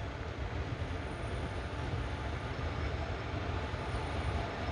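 Passenger express train rolling into a station, heard from on board: a steady low rumble of the coach and wheels, with a faint high squeal twice.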